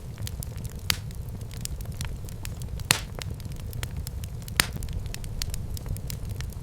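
Fire burning in a fireplace, crackling steadily over a low rumble, with three sharper pops about one, three and four and a half seconds in.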